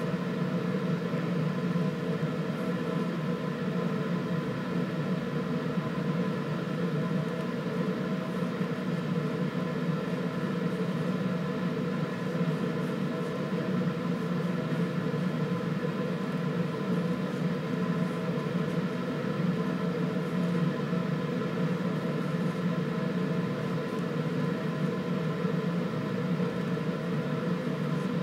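Steady machine hum made of several fixed tones, unchanging throughout.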